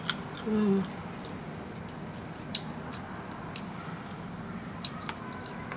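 Someone chewing crunchy unripe green mango close to the microphone: a handful of sharp, separate crunching clicks over a steady low background hum.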